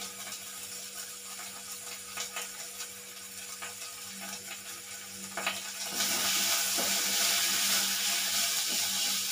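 Onions and ginger-garlic paste frying in an aluminium pan on a gas stove. A low sizzle with small clicks swells suddenly about six seconds in to a loud, steady sizzling hiss as the pan is stirred with a metal spoon.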